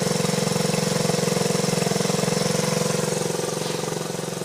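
1977 Honda CT90 Trail's small single-cylinder four-stroke engine idling steadily with an even, rapid exhaust beat through its original exhaust, growing a little quieter near the end.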